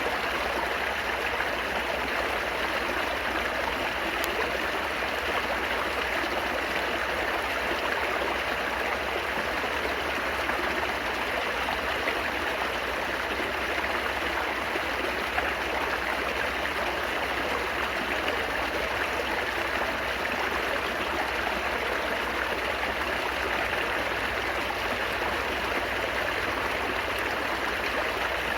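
Steady babbling of a flowing stream, water running and splashing over rocks without pause.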